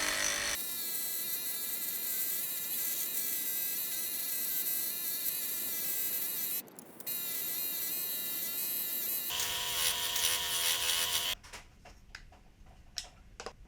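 A small electric power tool buzzing steadily, its pitch wavering slightly, with a short break about seven seconds in. Near the end it stops suddenly, leaving a few light clicks and taps.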